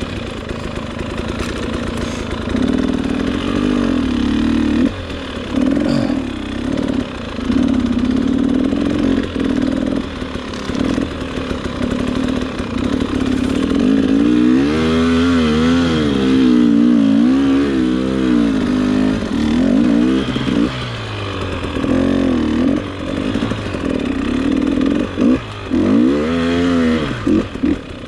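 Dirt bike engine running on a trail ride, its revs rising and falling over and over, with a run of quick up-and-down revving about halfway through.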